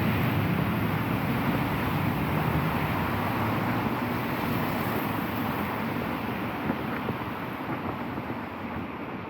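Road traffic noise: a vehicle going past, its sound slowly fading away, with wind on the microphone.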